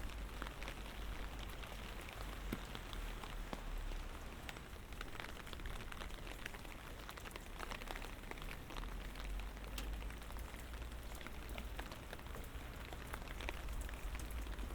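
Light rain falling, a steady hiss with many individual drops ticking close by, over a low steady rumble.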